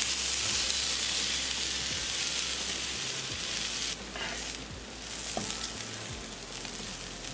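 Diced potatoes and dried fenugreek leaves sizzling in a frying pan as a wooden spatula stirs and scrapes them. The sizzle eases off about four seconds in.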